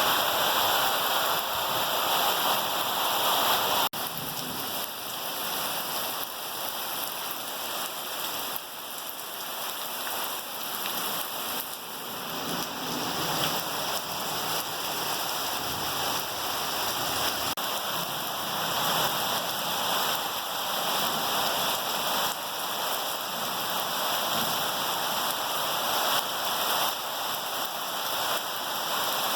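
Heavy rain falling steadily. There is a brief dropout about four seconds in, after which the rain is slightly quieter.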